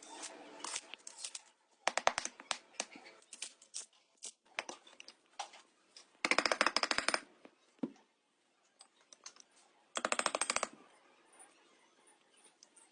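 Tools and metal parts being handled: scattered sharp clicks and knocks, with two short bursts of rapid clicking about six and ten seconds in.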